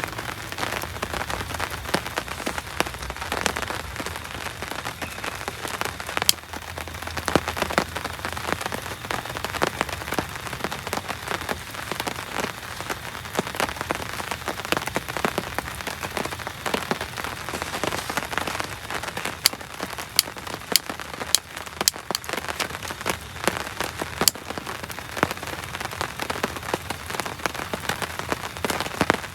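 Heavy rain falling steadily: a dense, even hiss with many sharp, irregular drop strikes close by.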